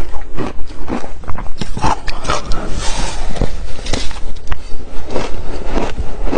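Ice with passion fruit being bitten and chewed, a fast uneven run of loud, sharp crunches, several a second.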